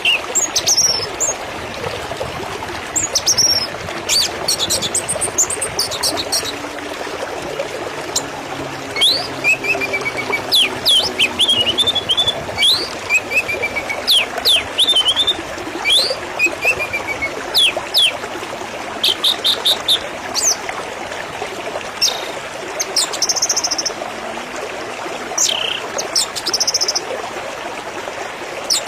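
Birds chirping and calling: many short, sharp whistled notes, quick falling sweeps and brief trills, over a steady background hiss.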